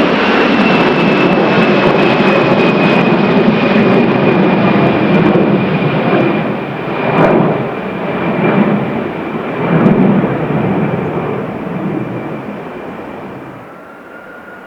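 Airbus A319 jet engines on the landing roll-out: a loud, steady roar with a high whine that falls slightly in pitch. There are louder rumbling surges near the middle, and the sound fades away over the last few seconds.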